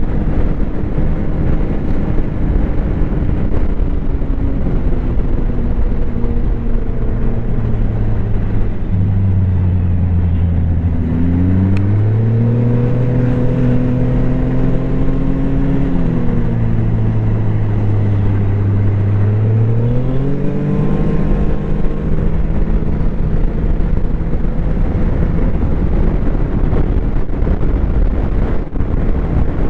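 Snowmobile engine running at a slow trail pace. The engine note drops and climbs back up twice in the middle, as the throttle is eased off and reapplied.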